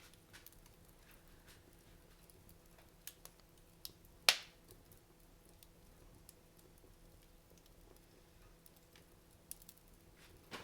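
Wood fire crackling in a fireplace: scattered faint snaps and one loud pop a little over four seconds in.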